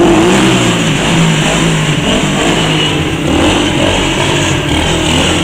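Pit bike engine running and revving, its pitch rising and falling over a steady rush of noise.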